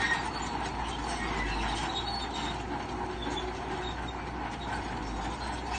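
Crawler bulldozer at work: its diesel engine running steadily, with the metallic rattle and squeal of its steel tracks.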